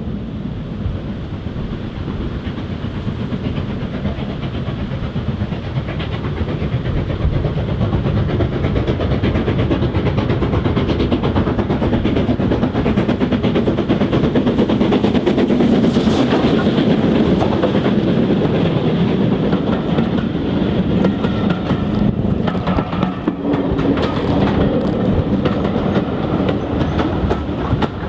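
A steam-hauled train passing close by, its noise building to a peak about halfway through. In the second half the wheels click over the rail joints as the carriages go by.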